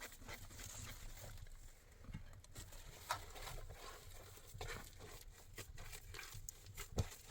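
Irregular light knocks and clicks over a faint low rumble, with one sharper knock near the end.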